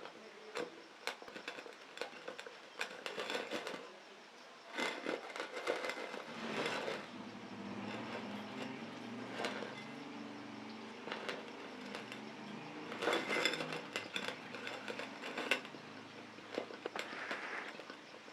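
Small metal parts of a rusty oil can clicking, knocking and scraping as it is handled, with a steadier rattling stretch through the middle.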